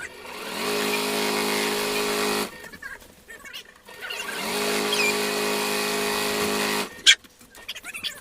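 Electric sewing machine stitching in two runs of about two seconds each, the motor speeding up to a steady hum and then stopping. A sharp click follows near the end.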